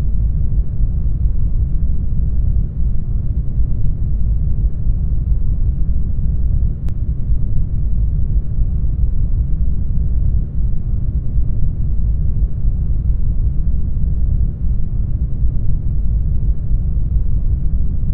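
Brown noise: a steady, deep hiss, strongest in the bass and fading away toward the treble.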